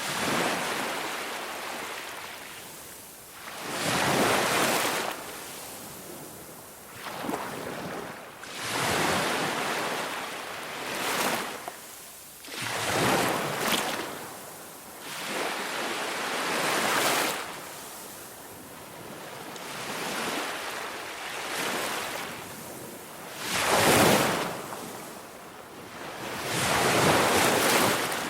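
Ocean waves breaking and washing in, one swell of rushing surf every two to four seconds, each rising and then fading away.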